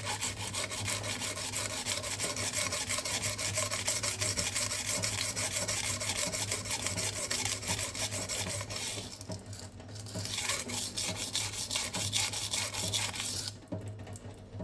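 Knife blade being ground back and forth on a coarse 120-grit silicon carbide whetstone: rapid, gritty scraping strokes. The strokes are raising the initial bevel on soft steel. They pause briefly about two-thirds of the way through, resume, and stop shortly before the end.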